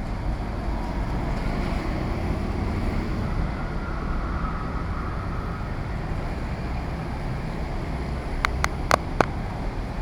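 Heavy rain and strong wind buffeting the microphone, a steady rushing noise with a low rumble and passing street traffic. Four sharp clicks come in quick succession near the end.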